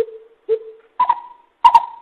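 Coucal lure call: a series of deep hooting notes about half a second apart, three low single hoots followed about a second in by louder, higher double hoots.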